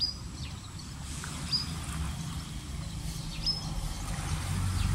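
A small bird giving a short, high chirp about every two seconds, three times, over a low outdoor rumble that grows louder near the end.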